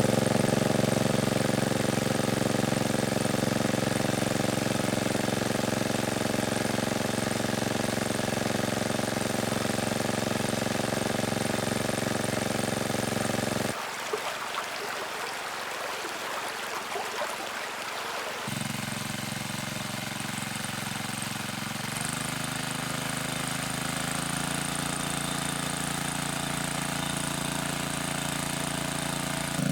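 An engine running steadily. About 14 s in, it drops away for roughly five seconds and a noisy crackle takes its place. Then the engine returns, shifting slightly in pitch a few seconds later.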